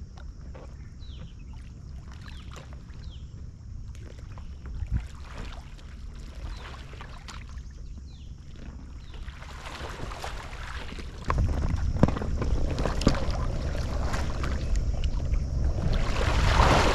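Water sloshing and paddle splashes around a sea kayak, with wind rumbling on the microphone. The water noise grows much louder about two-thirds of the way through, with the heaviest splashing near the end.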